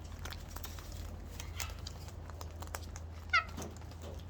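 A bird's short, high squeaky call about three seconds in, a quick run of notes falling in pitch, over faint scattered clicks and a low steady hum.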